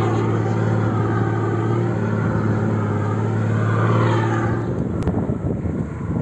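Vehicle engine running steadily with a low, even hum that gives way to rougher, noisier sound a little after four seconds in.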